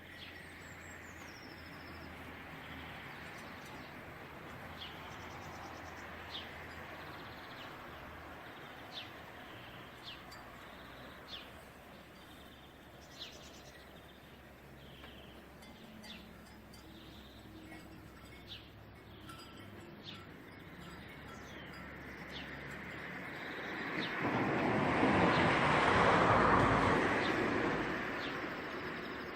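A bird chirping repeatedly, short high chirps about once a second or so, over a steady noisy background. Near the end, a broad rush of noise swells up, becomes the loudest sound, and fades again.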